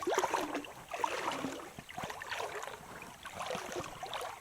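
Irregular splashing and sloshing of river water.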